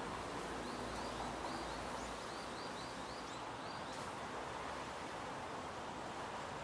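A small bird giving a run of about a dozen quick, high chirps over steady city street noise.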